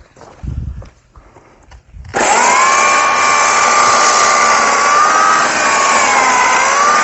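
An electric saw switches on about two seconds in, after a low thump, and runs loudly, its motor whine wavering and sagging as it cuts into firewood. The blade is worn from long use and cuts slowly, as the owner says.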